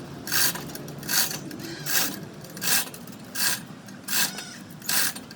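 A hand tool rasping across metal in even back-and-forth strokes, seven of them, about one every three-quarters of a second.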